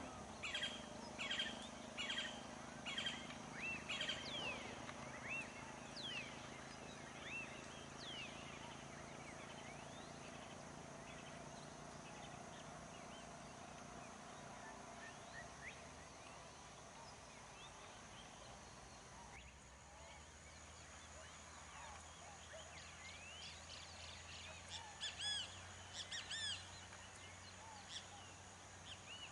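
Wild birds singing and calling, fairly faint: a run of evenly repeated chirping notes in the first few seconds, scattered calls through the middle, and a lively burst of chirps near the end.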